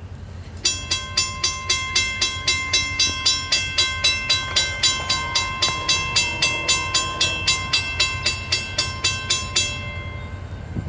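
Railroad crossing bell ringing in quick, even strikes, about three a second, starting abruptly just under a second in and cutting off about a second before the end. A steady low rumble runs underneath.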